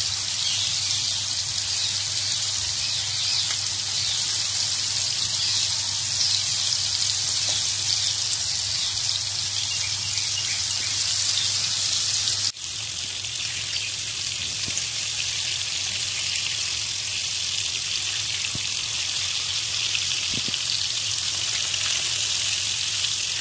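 Prawns frying in hot oil in a pan: a steady sizzle. A brief break about halfway through, after which the sizzle carries on slightly softer and duller.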